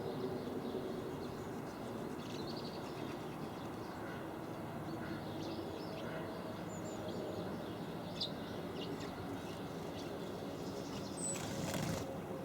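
Garden birds giving short, scattered high chirps over a steady low background rumble, with a brief rush of noise near the end.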